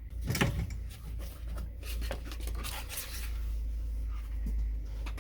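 Handling sounds in a workshop: scattered clicks, knocks and rubbing, the sharpest knock about half a second in, over a steady low hum.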